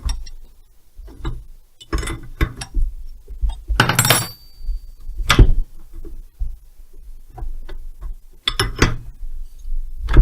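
Metal hand tools, sockets and spanners, clinking and clattering against each other as they are picked through, in irregular knocks. A louder clatter with a brief metallic ring comes about four seconds in.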